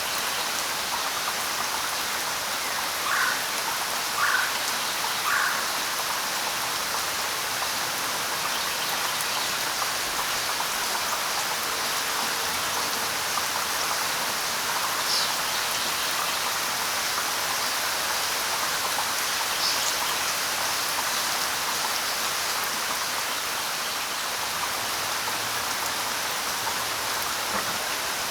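Steady light rain falling, an even hiss throughout. Birds call faintly over it: three short calls a few seconds in, and a few brief high chirps later on.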